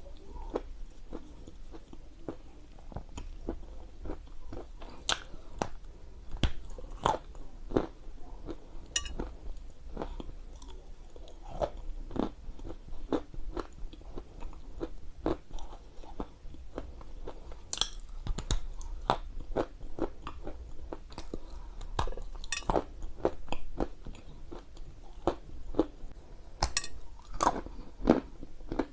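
Close-miked biting and chewing of dry edible Ural clay: irregular crisp crunches as pieces are bitten off and ground between the teeth, a few every second.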